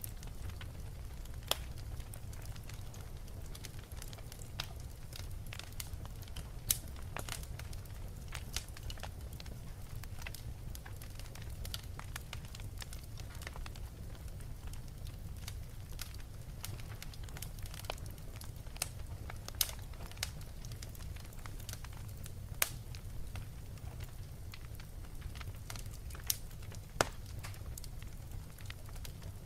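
Fireplace recording: a log fire crackling, with irregular sharp pops over a steady low rumble of the flames.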